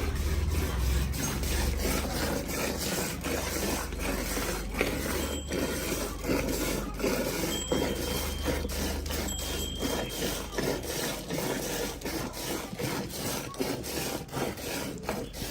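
Cow being milked by hand: quick, repeated squirts of milk streaming into a pail.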